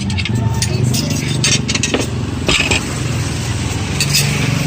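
A motor vehicle engine running steadily nearby, with a few clinks and scrapes of a serving spoon against dishes.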